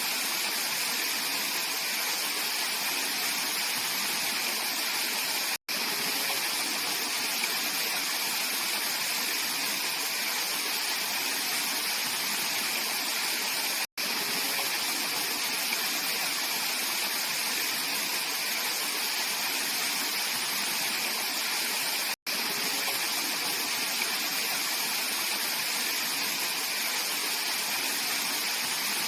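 Mountain stream water rushing and splashing steadily over rocks. The sound cuts out to silence for an instant three times, about eight seconds apart.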